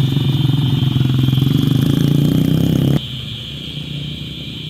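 A vehicle engine running steadily at an even pitch, then cutting off suddenly about three seconds in. A steady high-pitched hum carries on underneath throughout.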